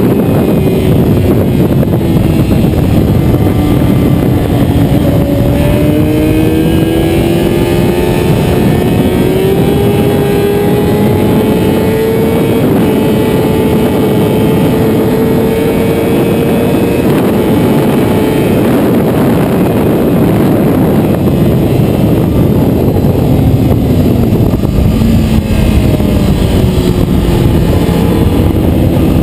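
Motorcycle engine running under load at speed over a heavy rush of noise, its pitch sinking at first, then climbing slowly and steadily as it gains speed, and dropping again near the end.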